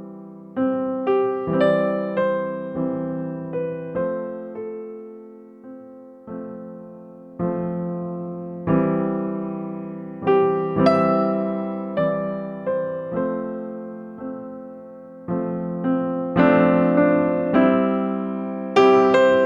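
Background piano music: soft chords and single notes struck about once a second, each left to fade.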